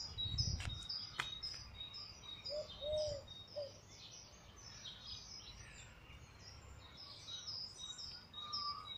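Small songbirds chirping in the trees, with one bird repeating a high "beep beep beep" note over and over. A few short lower notes come about three seconds in.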